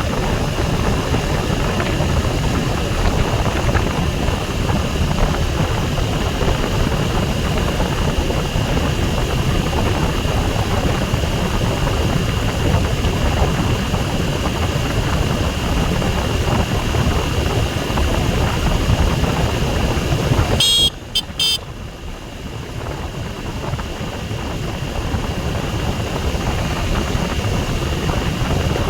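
A motorcycle on the move: a steady engine-and-road rush, strongest in the low end. About three-quarters of the way through, the sound cuts out briefly with a few crackles, then comes back quieter and builds up again.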